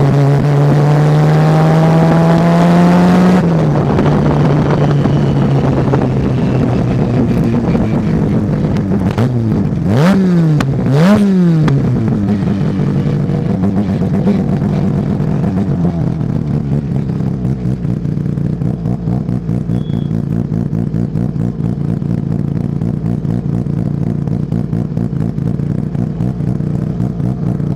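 Racing car engine pulling hard with its pitch rising, then dropping back. About ten seconds in it goes through two quick rev blips with the pitch falling and rising, like changing down. It then settles to a steadier, lower note.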